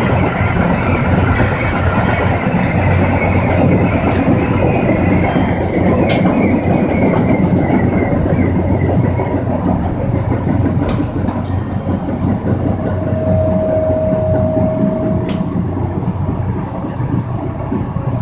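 Electric commuter train running on the rails, heard from inside the car: a steady rumble of wheels and motors with scattered sharp clicks, a brief steady whine about two-thirds of the way through, and slightly quieter toward the end as it nears the station.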